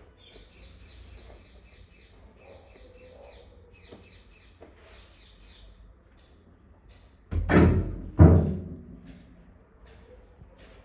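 A bird chirping in quick runs of high repeated notes. A little past the middle come two loud knocks about a second apart, each with a short ringing decay.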